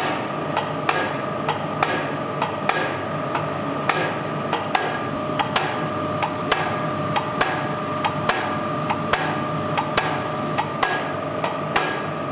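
D49 diesel fuel injector on a test stand, popping at each injection in sharp, evenly spaced cracks a little over two a second over a steady hum. The injector is opening cleanly and working without faults.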